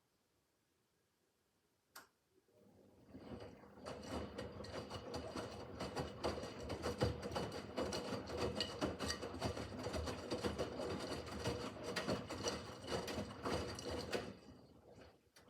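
Miele W5801 WPS front-loading washing machine in the wash phase of its easy-care 30 °C programme: a single click, then the drum motor starts and the drum turns for about ten seconds with a steady whir and busy rattling, before winding down to a stop.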